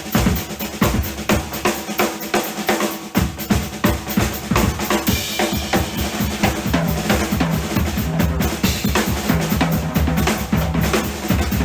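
Rock drum kit solo: fast snare and tom strokes with crashing cymbals over the bass drum. About three seconds in, the bass drum breaks into rapid, nearly continuous hits beneath the fills.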